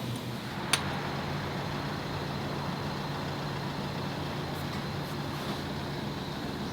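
Car engine running steadily, with one sharp click a little under a second in.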